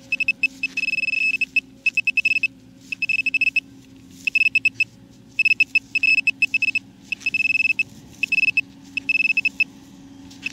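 Handheld metal-detecting pinpointer probing a dug hole, giving a high, fixed-pitch electronic beep that comes in rapid stuttering pulses and longer solid runs, switching on and off many times as the tip nears and leaves the buried target.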